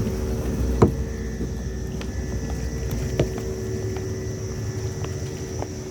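A boat's motor running steadily with a low rumble and a hum, and two sharp knocks about one and three seconds in.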